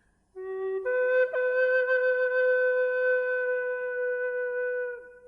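Slow, calm music on a flute-like wind instrument: a short lower note, then one long note held steady for about four seconds that fades out near the end.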